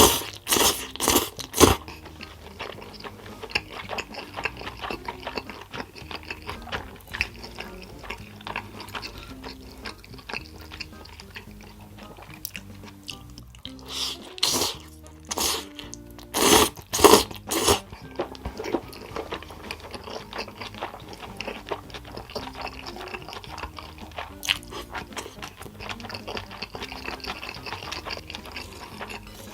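A person biting and chewing crunchy food, close to the microphone, in two bursts of crunching: one at the start and a longer one about halfway through. Quiet background music with a steady melody plays throughout.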